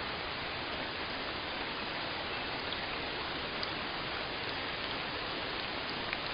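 Steady rain falling, a dense even hiss with a few faint individual drop ticks.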